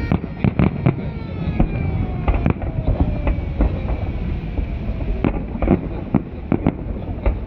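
Festive fireworks salute: a rapid, irregular string of bangs and pops from bursting shells, with long falling whistles in the first few seconds.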